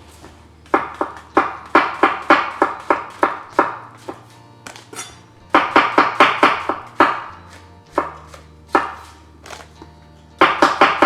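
A kitchen knife chopping mushrooms on a chopping board: quick runs of sharp taps at about four a second, broken by short pauses, with the last run near the end. Background music plays underneath.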